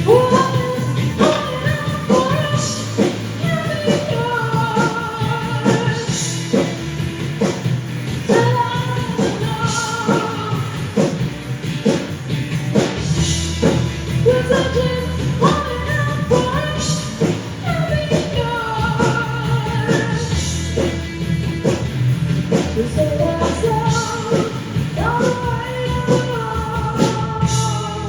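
Live rock band playing a song: drum kit keeping a steady beat under a sung melody.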